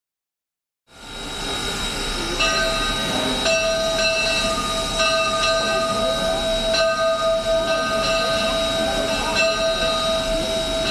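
Steam locomotive, the H.K. Porter 0-6-0T switcher US Army 5001, cuts in abruptly about a second in. Several steady tones are held over rough, noisy running sound, some of them dropping in and out.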